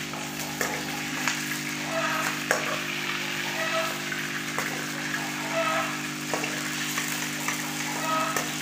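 Chicken pieces frying in hot oil in a steel karahi, a steady sizzle, with a metal ladle stirring the meat and clicking against the pan now and then.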